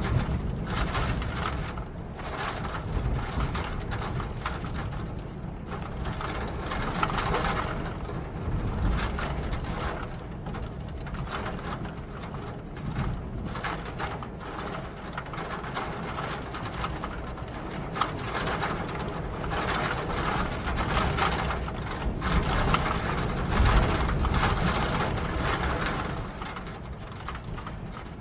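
Steady rain: a dense, rapid patter of drops over a low rumble, swelling a little now and then.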